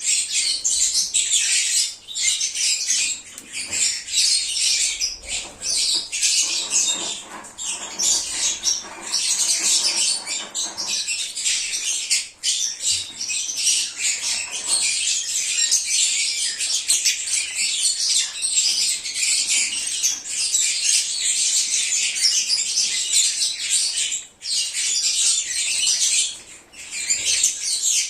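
A flock of lovebirds chirping and squawking together, many shrill overlapping calls with no pause.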